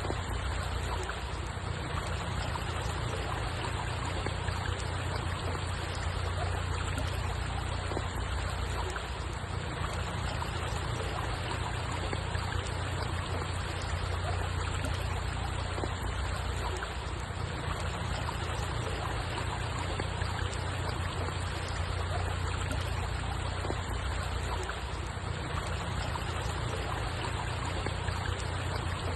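Water flowing and trickling steadily, with a low rumble underneath.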